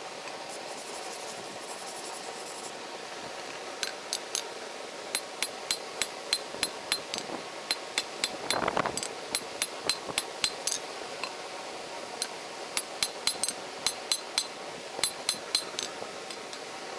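Hand hammer striking hot steel bar on an anvil, sharp ringing blows in runs of about two to three a second, starting about four seconds in, over a steady background hiss, with a brief rush of noise near the middle.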